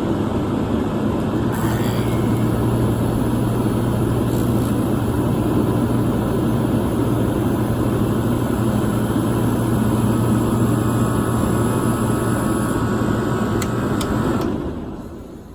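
Wesco (Westinghouse) 24,000 BTU air conditioner running: blower air noise over a steady hum from its Copeland compressor. Near the end the hum stops and the sound drops away sharply as the unit shuts down.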